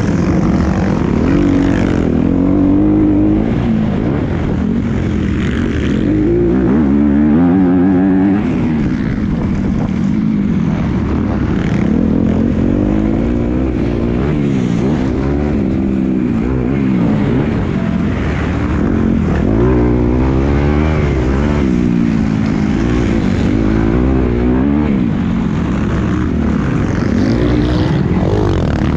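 Motocross bike engine being ridden hard, its revs rising and falling every second or two as the throttle is opened and shut through the track's corners and jumps.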